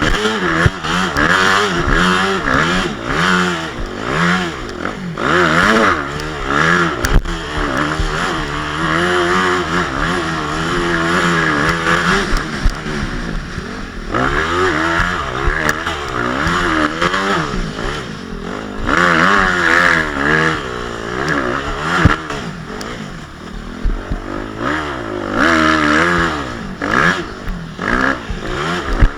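Motocross bike engine revving hard and continuously, its pitch rising and falling over and over as the throttle opens and closes, with a few sharp knocks.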